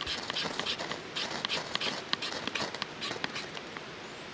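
Mora Garberg knife working wood for a small fire: a rapid, irregular run of sharp scrapes and clicks that thins out near the end.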